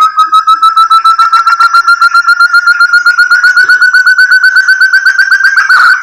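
Lure call of the burung terung, the forest partridge ('puyuh hutan'): a long run of rapid whistled notes, about ten a second, slowly rising in pitch, breaking into a louder jumble near the end.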